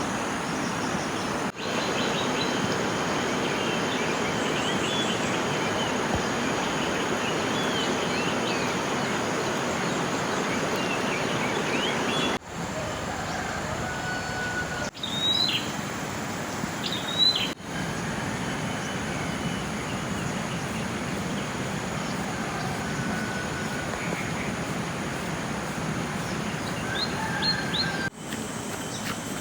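Steady rush of running water, with birds chirping over it a few times. The noise drops out for an instant at several clip joins.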